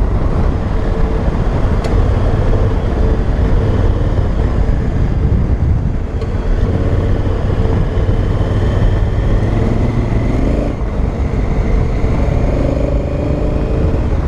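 Honda Africa Twin's 998 cc parallel-twin engine pulling under way. The revs climb, drop sharply about eleven seconds in, then climb again.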